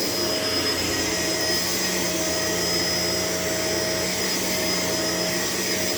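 Shark LA702 vacuum cleaner running steadily on the floor: a constant rush of air with a steady motor whine.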